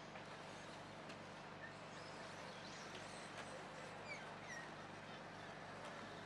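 Faint outdoor background hiss with several short, high, falling chirps of birds scattered through it.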